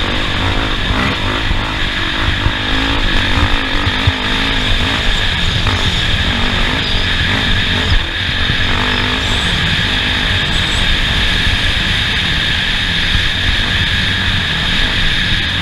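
Off-road race vehicle's engine running under way, its pitch rising and falling with the throttle over a constant loud rumble and noise.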